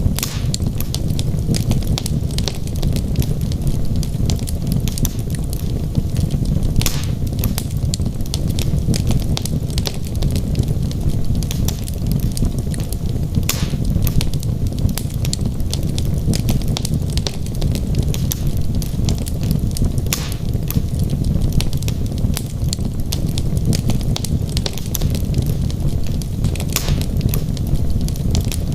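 Wood fire burning in a fireplace: a steady low rumble of flame with frequent sharp crackles and occasional louder pops from the burning logs.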